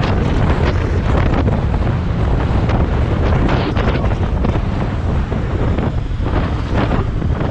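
Heavy wind buffeting the microphone: a loud, continuous low rumble with irregular gusting rushes.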